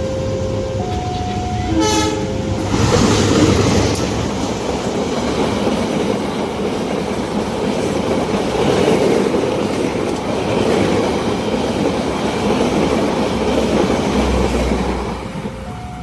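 Level crossing warning alarm alternating between two tones, cut by a short train horn blast about two seconds in. A train then rushes past with its wheels clattering over the rails, and the two-tone alarm comes back near the end.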